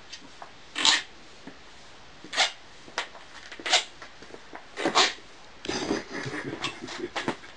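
Sneaker soles squeaking on a hard floor with each step: short, sharp, high squeaks, five of them spaced about a second apart, then a quicker run of shorter squeaks and scuffs near the end.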